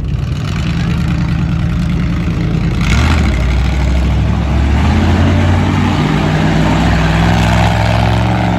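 Monster truck engine running loud, revving up about three seconds in and then holding at a steady high pitch.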